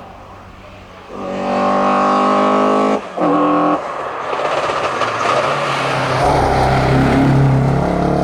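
Alfa Romeo Giulia GTA's four-cylinder engine at full throttle, howling at high revs, with two quick upshifts about three and four seconds in. It then comes in louder and rougher with a deep exhaust rumble as the car closes in.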